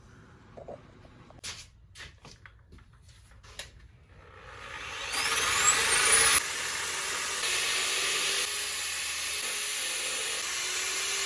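A few light knocks, then an electric hand power tool is switched on: its motor whines up to speed and it runs steadily with a loud rushing noise before stopping abruptly near the end.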